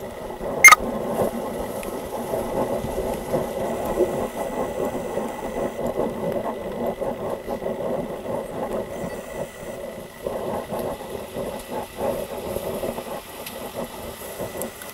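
Car engines idling steadily, heard up close, with one sharp knock about a second in and a faint steady high whine underneath.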